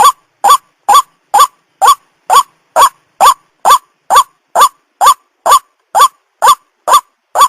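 White-breasted waterhen (ruak-ruak) calling: a short, rising note repeated a little over twice a second in an even, unbroken series. It is a recorded call played as a lure for the bird.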